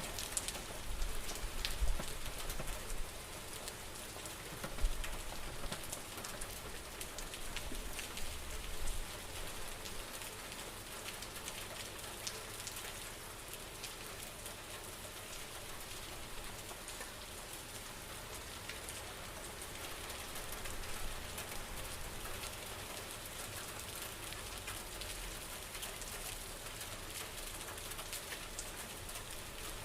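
Steady rain falling, with many separate drops ticking through the hiss. Low gusts of wind rise and fall over the first several seconds, then the rain goes on evenly.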